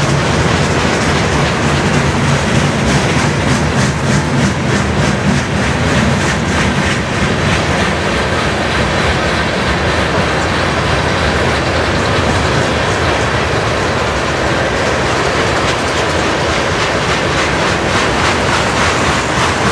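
Freight train of boxcars and tank cars rolling past close by, a continuous rumble with wheels clicking in a steady rhythm over the rail joints.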